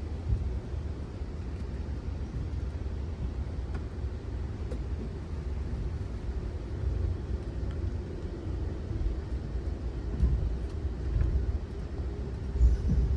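Amtrak Auto Train passenger train rolling along at speed: a steady low rumble of wheels on the track, with a faint steady hum above it.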